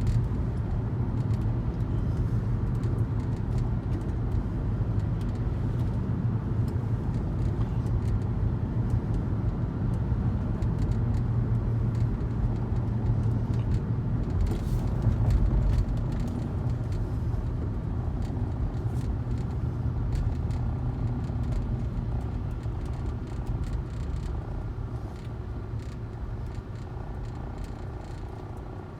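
Aircraft engine droning overhead, a steady pitched rumble that grows a little louder midway and then fades away over the last several seconds as the aircraft moves off.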